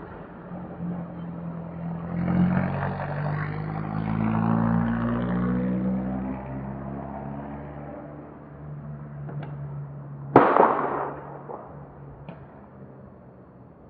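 A vehicle engine humming as it passes, its pitch drifting, then fading. About ten seconds in, a single sharp loud bang with a short echoing tail, the loudest sound.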